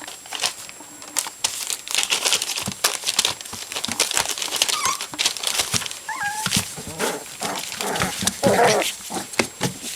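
Puppies playing: a busy run of clicks and scuffles, with a few short high whimpers about six seconds in.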